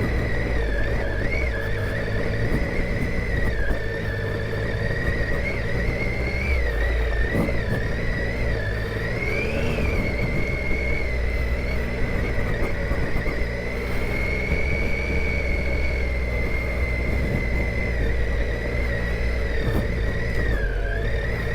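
Triumph Tiger 800 XCa's three-cylinder engine running steadily under way on a dirt road, with a high whine that wavers slowly in pitch over it.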